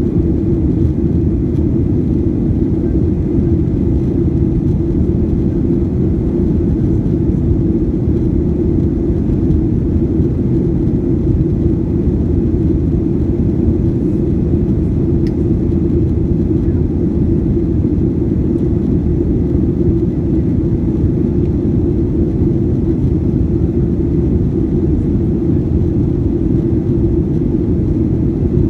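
Boeing 737-800 jet engines, CFM56-7B turbofans, heard inside the cabin as a steady, unchanging low rumble with a faint high tone above it.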